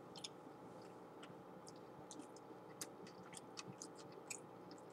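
Faint, irregular wet mouth clicks and smacks of a person chewing a bite of sandwich, over a low steady hum.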